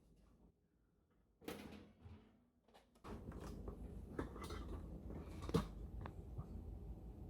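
Faint knocks and clacks of things being handled and set down. A low steady background noise comes up about three seconds in, with several more knocks over it.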